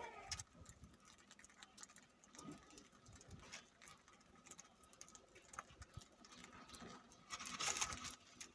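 Faint scattered ticks and scratching from budgies moving about the aviary, with a brief louder rustle near the end.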